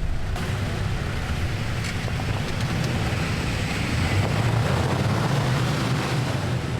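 Truck engines running in a low, steady rumble, with wind buffeting the microphone, as a Toyota Tacoma stuck on ice is pulled out on a kinetic rope. The rumble swells a little past the middle.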